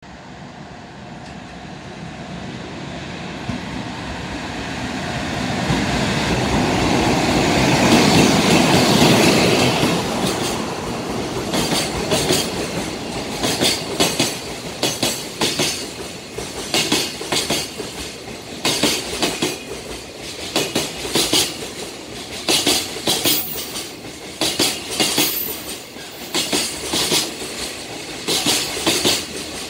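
Freight train passing at speed: a rumble that builds as the locomotive approaches and peaks about eight seconds in, then container flatcars rolling by with a regular clickety-clack of wheels over the rail joints.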